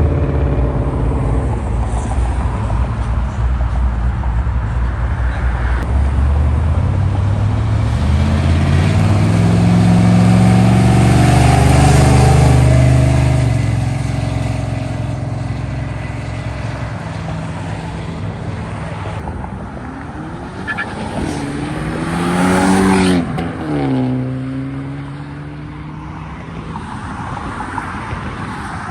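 Vehicle engines accelerating as vehicles drive off. One builds to a loud pass about ten to thirteen seconds in and then fades; another revs up quickly and falls away about 22 seconds in.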